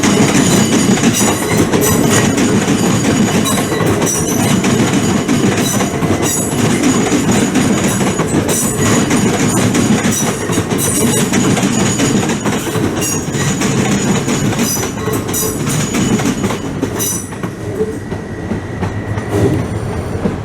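Electric train running past on the rails: a loud rumble with clattering clicks from the wheels and thin high squealing tones, easing off over the last few seconds.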